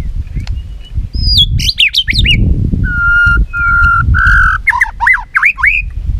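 White-rumped shama in competition song: a fast run of whistles gliding up and down, then three steady held whistles, then a series of swooping notes near the end. A low rumble runs underneath.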